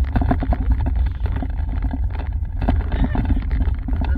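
A car being driven, heard from inside the cabin: a loud, steady low rumble with a dense, rapid patter of clicks and rattles over it.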